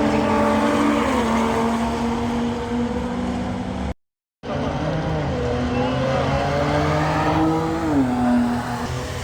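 Car engines running hard, their pitch holding steady and then stepping down a few times. The sound cuts out briefly about four seconds in, then another run of engine sound follows with its pitch dropping near the end.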